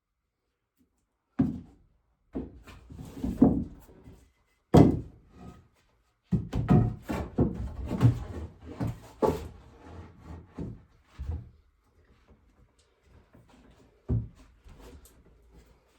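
Irregular wooden knocks and thunks from carpentry work with boards, with a busy run of clattering in the middle and a single sharp knock near the end.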